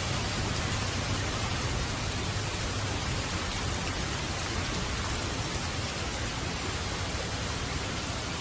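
Steady heavy rainfall: an even hiss of rain with a low, constant rumble underneath.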